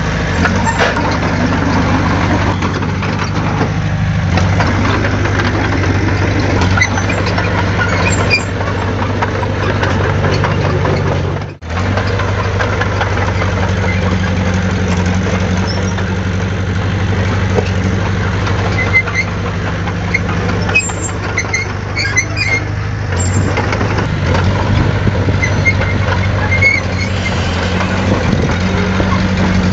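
Heavy earthmoving machinery's diesel engine running steadily, cutting out for an instant about twelve seconds in.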